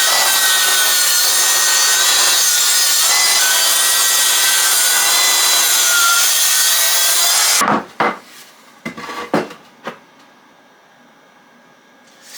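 Power saw ripping an angle along a timber board, running steadily under load for about seven and a half seconds and then cutting off, followed by a few knocks as the wood is handled.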